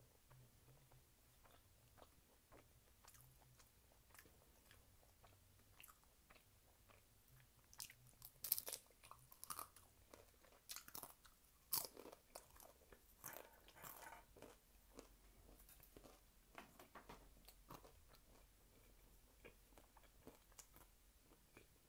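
A person biting and chewing a crispy fried taquito: soft chewing at first, then a run of sharp crunches about eight to fourteen seconds in, easing back to quieter chewing.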